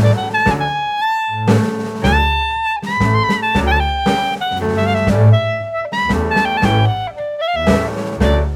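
Instrumental jazz: a saxophone playing a melody of held notes over double bass and drum kit.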